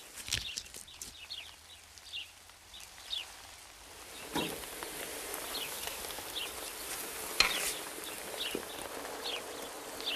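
Birds chirping in the open field, short falling calls repeated every second or so, over a hiss that grows about four seconds in, with a few sharp knocks.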